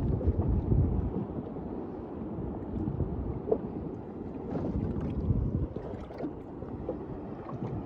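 Wind on the microphone with water sloshing against a sailboat's hull, a steady low rush with a few faint knocks.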